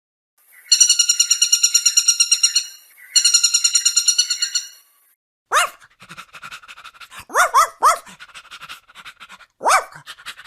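A dog vocalizing: two long, high, rapidly pulsing whines, then short yelps that rise in pitch, three of them in quick succession.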